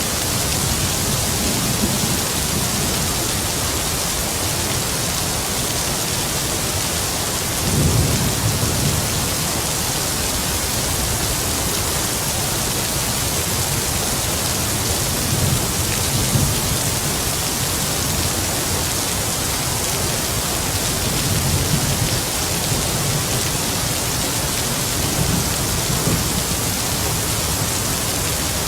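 Heavy rain falling in a steady, dense hiss, with low rumbles of distant thunder swelling up about eight seconds in and several more times later.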